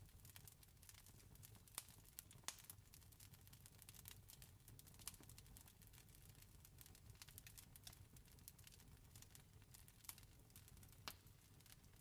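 Campfire crackling faintly: irregular sharp pops and snaps, a few louder ones standing out, over a steady low rumble.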